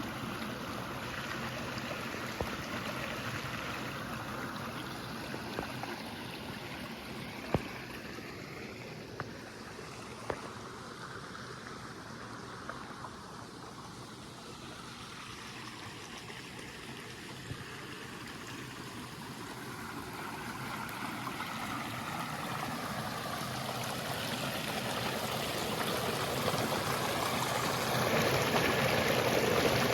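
Small woodland waterfall spilling into a pond: a steady rush of falling water that dips a little in the middle and grows steadily louder over the last ten seconds. A few sharp clicks stand out in the first ten seconds.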